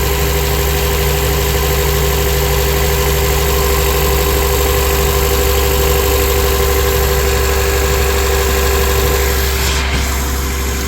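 A 2004 Honda Accord's engine idling at an even level, running rough with one cylinder misfiring.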